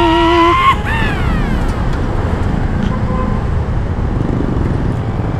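A Honda Click 125i scooter's single-cylinder engine running while riding in traffic, under a dense rush of wind and road noise on the camera microphone. About a second in, a falling whine sweeps down.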